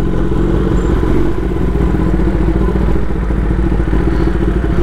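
Kawasaki Ninja ZX-10R's inline-four engine with an SC Project S1 exhaust, running steadily while the bike is under way.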